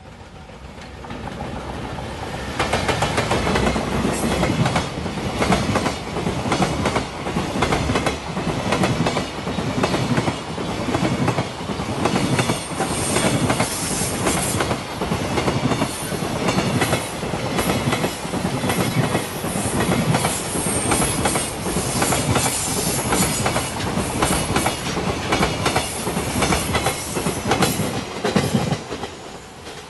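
Container freight train passing close by: it builds up over the first couple of seconds, then the wagons' wheels clatter over the rail joints in a long, steady clickety-clack. The sound drops away quickly near the end as the last wagon goes by.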